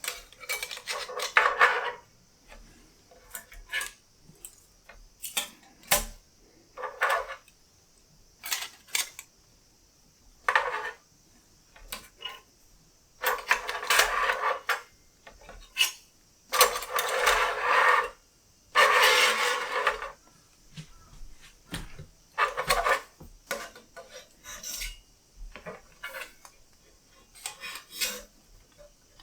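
Metal parts of a SOTO Mini Fire Stand Hexa folding fire pit clattering and scraping against each other as they are handled. The sound comes as a series of separate rattling bursts, each up to about a second and a half long, with sharp clinks in between.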